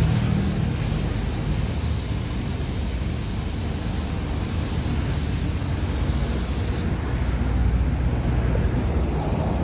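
Power sander running steadily on wood: a low motor hum under a hiss. The high part of the hiss drops away about seven seconds in.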